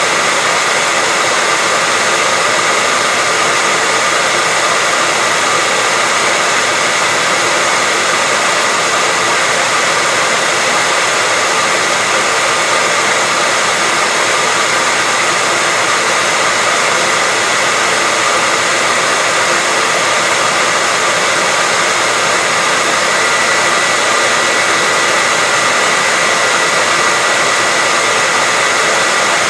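Hair dryer running steadily: an even, unbroken blowing hiss with a faint steady whine, the same throughout.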